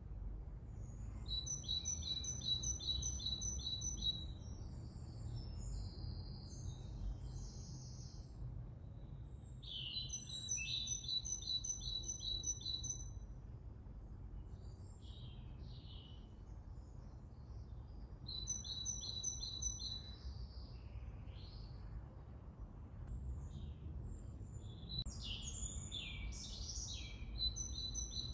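A songbird singing in phrases of rapid, evenly repeated high notes, four phrases with other chirps in between, over a steady low rumble.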